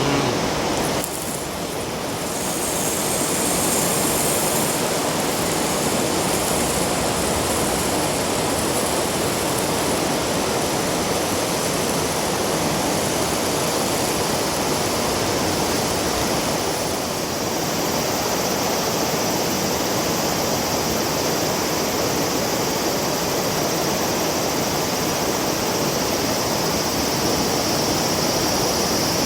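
River water rushing in a steady, even noise.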